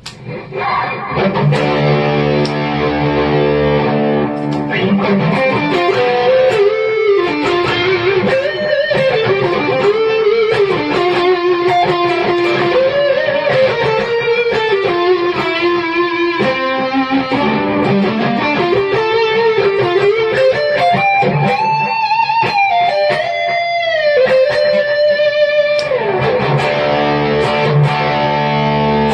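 Electric guitar played through a multi-effects pedal: a held chord rings out, then a lead melody with pitch bends and vibrato, and about 26 seconds in another held chord.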